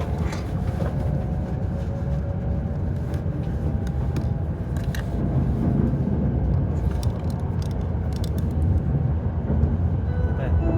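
Running noise inside a W7 series Hokuriku Shinkansen passenger car: a steady low rumble with scattered light clicks and creaks.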